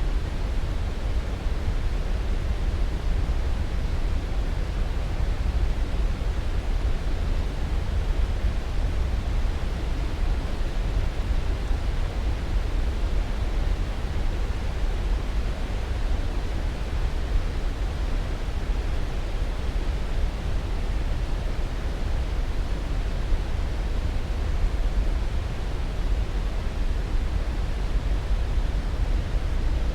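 Steady white-noise sleep track, fullest and deepest in the low end, unchanging throughout.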